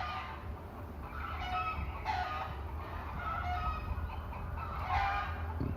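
Free-range village chickens (ayam kampung) clucking and calling in short repeated notes, over a steady low hum.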